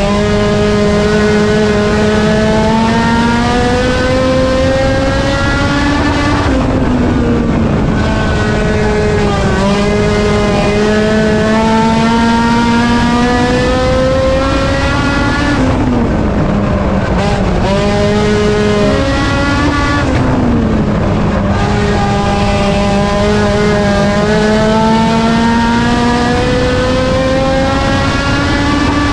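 A race car's engine held at high revs, its pitch climbing slowly and then dipping briefly several times as the throttle is lifted, like laps around a short oval.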